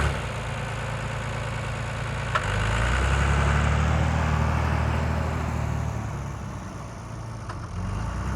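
Miniature tractor's engine sound, a steady low idling hum that steps up in pitch about two and a half seconds in and shifts again near the end. A sharp click comes just before the first pitch change.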